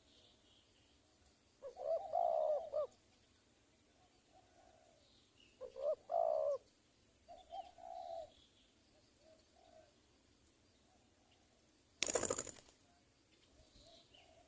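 Spotted doves cooing: two loud coo phrases about four seconds apart, with softer coos between and after. About twelve seconds in, a brief loud rustling burst cuts across.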